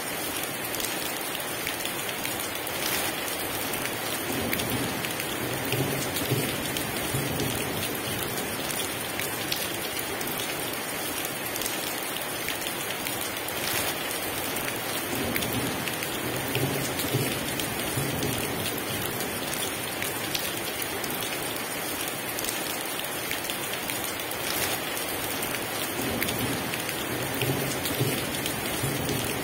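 Heavy rain falling steadily, with three low rumbles of thunder rolling in and out, about five seconds in, mid-way and near the end.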